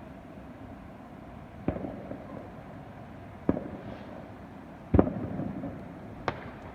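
Fireworks going off: four sharp bangs one to two seconds apart, the third the loudest, each trailing off briefly.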